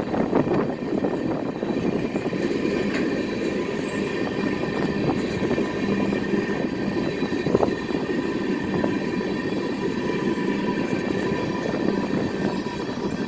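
CSX freight train's cars rolling past: a steady rumble of wheels on rail, with thin high squealing tones held throughout and easing slightly near the end.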